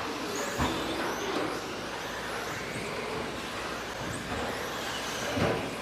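Radio-control 2WD electric stadium trucks with 13.5-turn brushless motors racing on the track: a steady rush of motors and tyres with faint high motor whines that rise and fall. Two sharp knocks come through, one about half a second in and one near the end, from trucks landing or hitting something.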